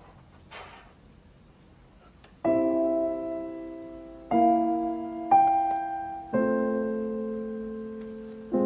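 Soft background piano music: after a quiet opening, slow single notes or chords are struck every second or two and left to fade.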